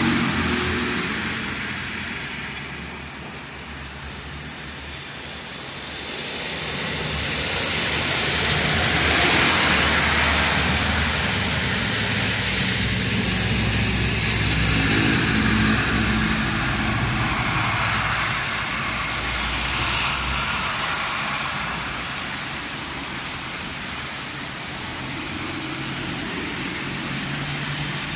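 Heavy storm rain hissing steadily, swelling louder partway through and easing later, with car engines and tyres on the wet road humming underneath.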